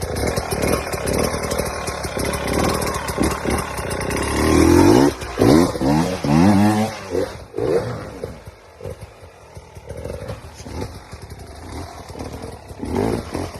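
Dirt bike engine revving hard several times in the middle, its pitch rising with each rev, then running lower and more unevenly with short throttle blips.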